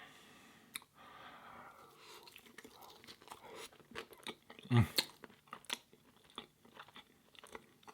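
Close-miked chewing and crunching of crinkle-cut fries, with many small wet mouth clicks and smacks. About five seconds in there is a louder, low thump.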